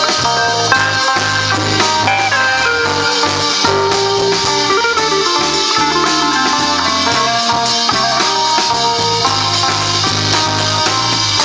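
A live rock band playing an instrumental break with no vocals: a guitar melody over bass and drums.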